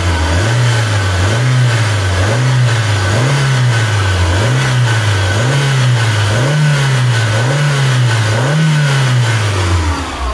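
Mazda Astina's DOHC 16-valve four-cylinder engine being revved by hand at the throttle linkage: about nine quick blips, roughly one a second, each rising and falling back, before it drops away near the end. A steady high whine runs underneath.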